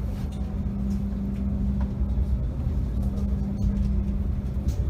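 Steady low rumble inside a passenger train carriage, with a constant hum that drops out briefly a little past two seconds in.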